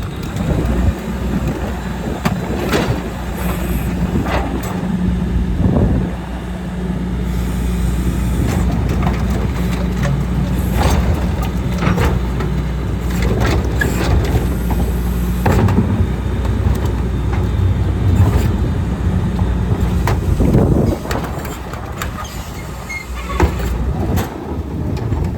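Garbage truck engine running steadily, with repeated knocks and clanks over it.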